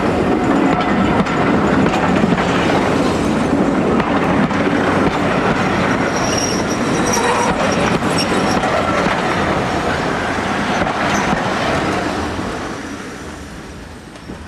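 Railway passenger coaches rolling past close by, wheels clicking over the rail joints, with a brief high flange squeal on the curve about six seconds in. The sound fades over the last couple of seconds as the train draws away.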